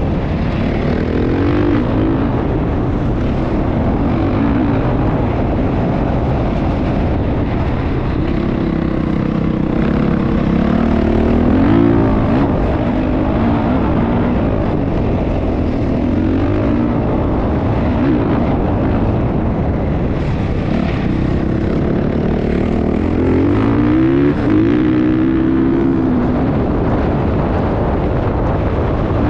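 Motocross dirt bike engine revving up and falling back again and again, its pitch climbing and dropping in repeated sweeps over a steady low rush of noise.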